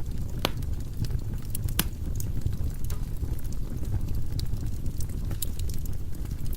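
Firewood burning in a fireplace: a steady low rumble of flame with scattered sharp crackles and pops from the logs.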